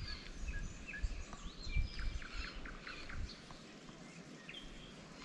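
Small birds chirping and singing: many short high notes and quick falling whistles overlapping one another, with a few low bumps in the first half.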